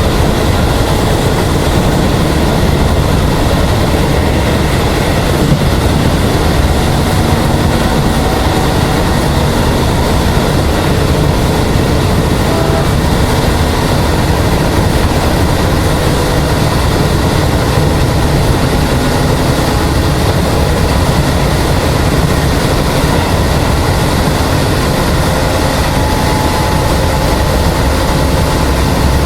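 Hokuso 7260-series electric train with resistance-controlled DC traction motors running along the line, heard from inside the car: a steady, even rumble of wheels and motors.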